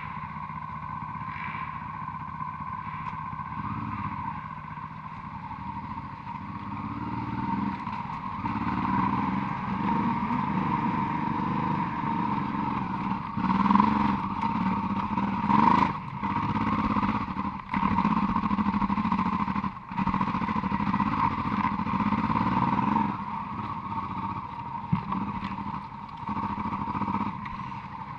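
Honda Transalp motorcycle engine running while the bike is ridden. Its sound swells and fades with the throttle, with a few brief sharp drops about two-thirds of the way through.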